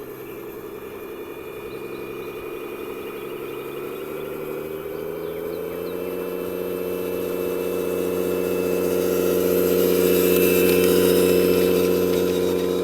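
Radio-controlled construction vehicle running with a steady engine-like hum that rises in pitch about five seconds in and grows louder towards the end.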